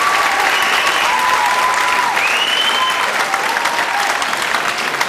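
Audience applauding, with a few voices calling out cheers over the clapping.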